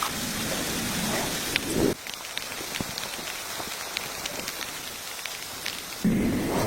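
Steady rain falling, with many scattered sharp drips. The sound drops abruptly about two seconds in, and a sudden low rumble rises near the end.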